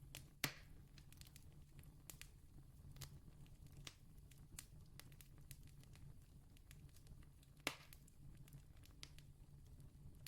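Campfire crackling faintly, with scattered small pops and two louder snaps, one about half a second in and one about three-quarters of the way through, over a low steady rumble.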